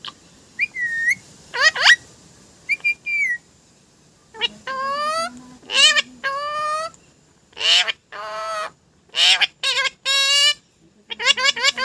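A pet parrot calling and whistling in separate bursts, some sliding in pitch and some longer with a wavering pitch, then a quick string of short calls near the end.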